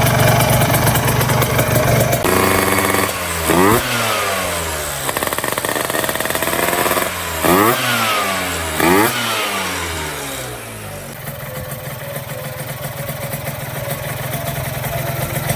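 Two-stroke Vespa engine fitted with a Quattrini 144 cylinder kit, running freshly assembled and revved in several short throttle blips. The revs rise sharply and fall back each time, then settle to an idle near the end.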